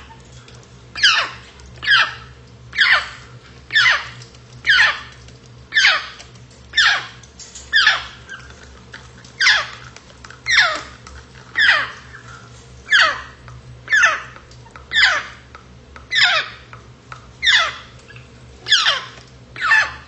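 African grey parrot calling over and over, about once a second, each call a short whistle that falls sharply in pitch.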